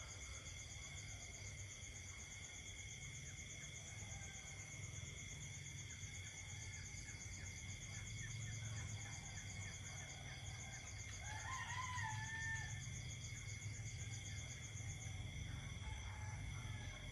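Night chorus of insects trilling steadily in several high pitches, one of them pulsing rapidly, over a low rumble. About twelve seconds in, a single animal call of about a second rises and falls.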